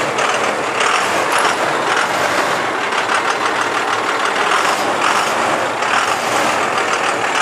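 Cummins 12-valve straight-six diesel in a 1995 Ford F-series box truck running steadily, still cold from a cold start.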